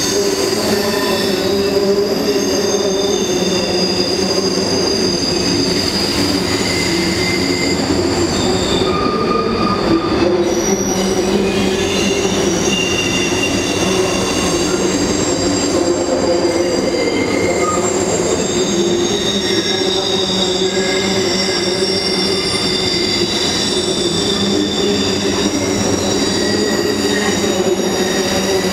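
Canadian Pacific freight train's covered hopper cars rolling steadily across a steel trestle bridge. The wheels squeal in several high tones that come and go over the steady rolling noise.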